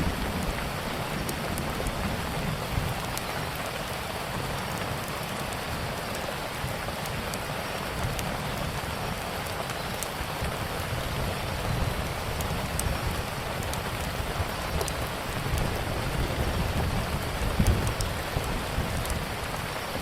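Steady heavy rain with a low rumble underneath, and scattered sharp pops and crackles of a wood fire.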